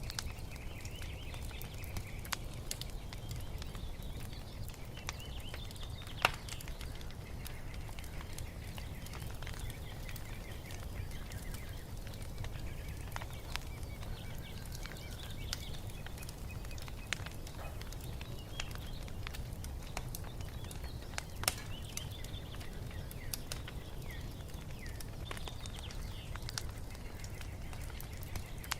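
Wood fire crackling in a fireplace: a steady low rumble with scattered sharp pops, the two loudest about six seconds in and about twenty-one seconds in. Small birds chirp and trill over it throughout.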